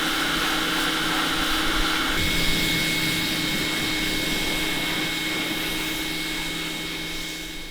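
A steady motor whine at a constant pitch, over a hiss, fading slightly near the end.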